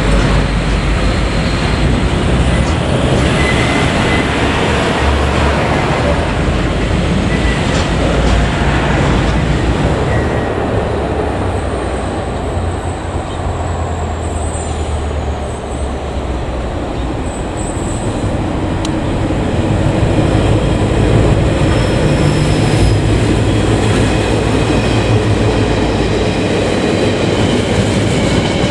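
Freight trains rolling past: container wagons rumbling and clacking over the rails, with some wheel squeal. Partway through, a pair of DFB-class diesel-electric locomotives come through, and their engines' low hum swells before loaded container and log wagons follow.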